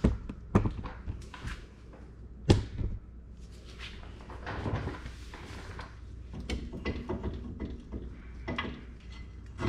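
Knocks and clunks of a front brake caliper being worked off the rotor and set down, with rustling handling noise between them; the sharpest knock comes about two and a half seconds in.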